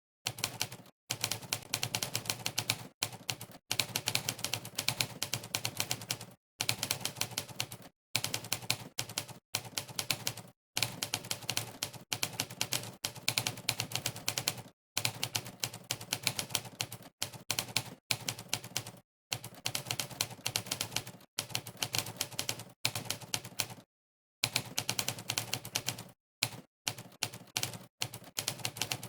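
Rapid clatter of typewriter key-strike sound effects, one per keypress, from the monkeytype typing site's typewriter sound setting. It is broken every few seconds by short gaps of complete silence.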